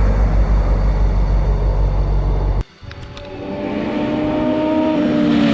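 Sport motorcycles at high revs. First a loud low rumble that cuts off abruptly about two and a half seconds in. Then a single bike's engine note holds a steady high pitch while growing louder as it approaches, and the pitch starts to drop as it passes at the very end.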